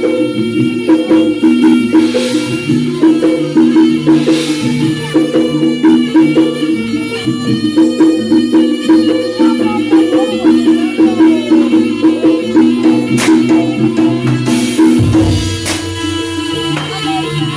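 Live East Javanese jaranan music: a gamelan-style ensemble of drums and gong-chimes playing a dense, steady rhythm over sustained pitched tones.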